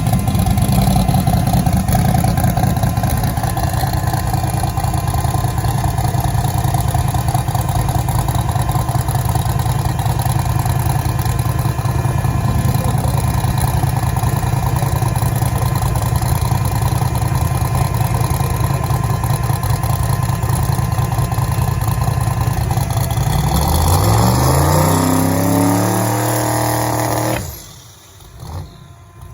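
Newly built engine running steadily, then revved with a rising pitch for a few seconds and shut off abruptly near the end.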